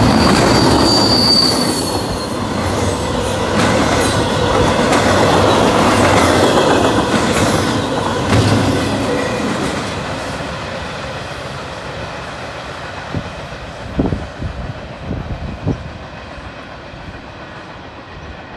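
A Norfolk Southern double-stack intermodal freight train running past at speed, its loaded well cars making a loud, steady rolling rumble. There is a brief high-pitched wheel squeal near the start. About ten seconds in, the sound fades as the last cars pull away, leaving a few sharp clicks.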